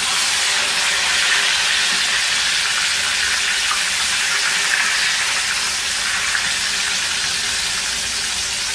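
Battered chicken fillets deep-frying in hot oil in a pan, a steady loud sizzle. It swells at the start as the pieces are turned over with tongs.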